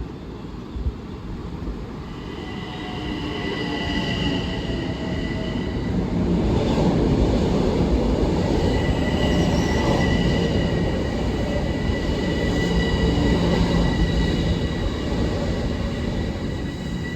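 A Long Island Rail Road electric train running past on the tracks, its rumble growing louder from about two seconds in and easing slightly near the end, with steady high-pitched wheel squeal coming and going over it.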